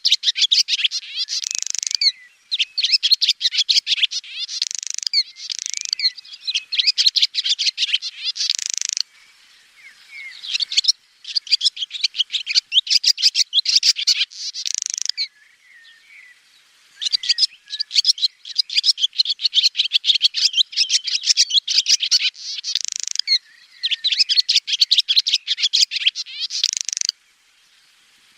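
Swallow song: fast, high twittering and chattering runs of rapid notes, each lasting several seconds, with a few short pauses between them.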